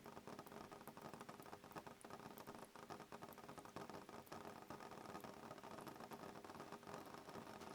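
Soft rain on a window pane, a faint, steady patter of many small drop taps.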